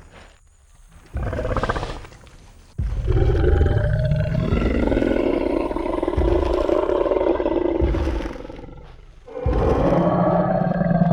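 Tyrannosaurus rex roar sound effect: a short growl about a second in, then a long, deep roar from about three seconds in that fades away, and another roar rising near the end.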